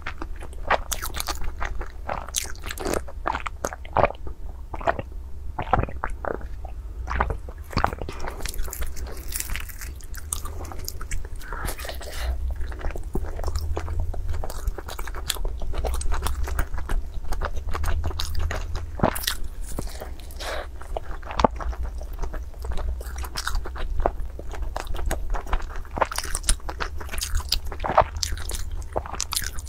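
Close-miked biting and chewing of a brown, sticky-rice-filled roll: a dense run of irregular crunches, wet mouth clicks and smacks.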